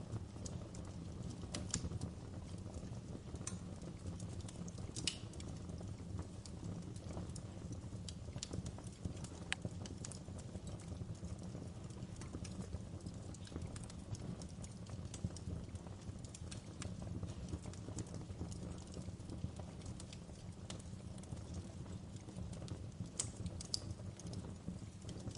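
Wood fire crackling in a fireplace: a steady low rumble of flames with irregular sharp pops and snaps, a few louder snaps scattered through.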